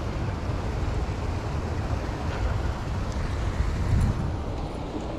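Steady low rumble of outdoor background noise, swelling briefly about four seconds in.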